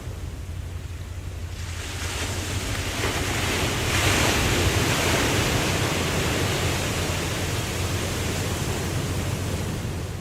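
Ocean waves: one wave washes in, building from about a second and a half in, loudest around four seconds, then slowly fading, over a steady low rumble.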